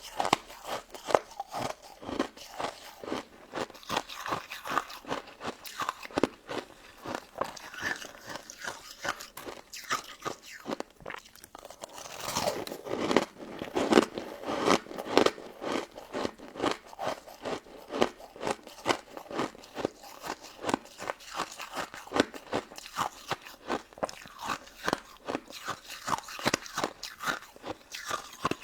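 Close-miked ASMR crunching and chewing of a crisp, icy crystal dessert: bite after bite of sharp crunches, two to three a second. About halfway through there is a louder, denser stretch of crunching.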